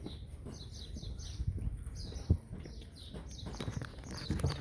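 Small birds chirping over and over, with a low rumble beneath and a single knock a little past two seconds in.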